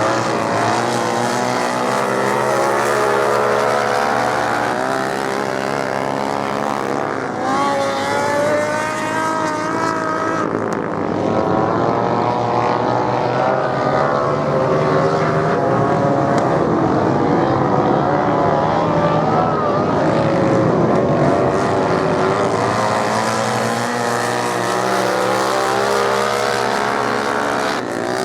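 Racing motorcycle engines, several at once, running hard with their pitch rising and falling as they rev and change gear.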